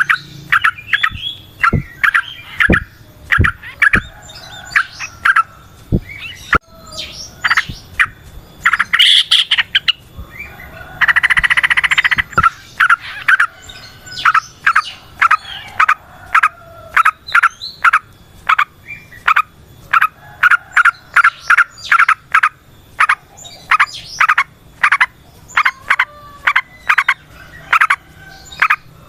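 Yellow-vented bulbuls (trucukan) calling in a quick series of short, bubbly chirps repeated again and again. A harsh buzzy note about eleven seconds in lasts roughly a second. A few faint knocks come in the first seven seconds.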